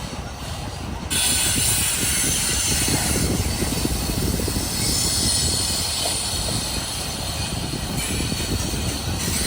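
Train rolling past with a steady rumble of wheels on the rails. From about a second in, high-pitched wheel squeal rides over the rumble and continues.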